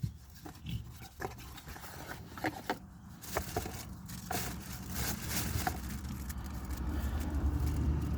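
Parts being handled during a blend-door actuator swap: a series of light clicks and knocks, then a few seconds of scraping and rustling, over a low rumble that grows louder near the end.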